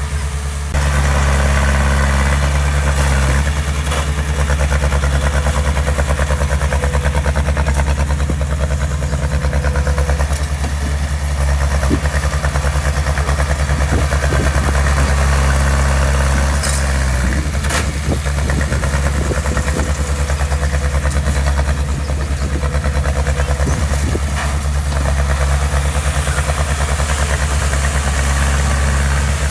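Heavy diesel construction-machine engine running steadily at a low, even pitch, getting louder about a second in. A few brief sharp knocks come through in the middle.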